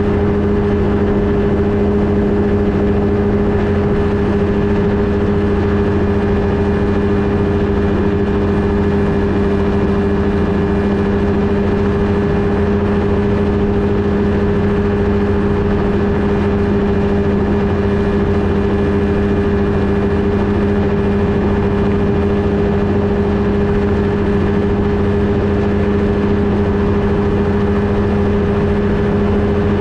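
Flightstar II ultralight's engine and propeller running at steady, unchanging power, a loud constant drone with a steady low hum.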